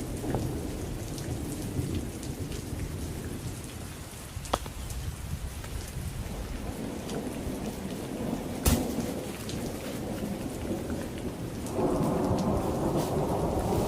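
Heavy rain falling steadily with rumbling thunder, growing louder near the end, and a couple of sharp cracks.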